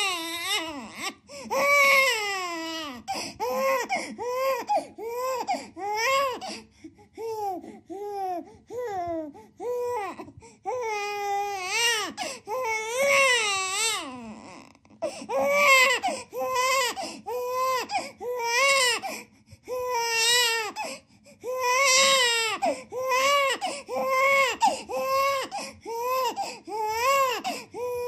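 A baby crying: a long run of short, pitched cries one after another, each rising and falling, with brief catches of breath between them.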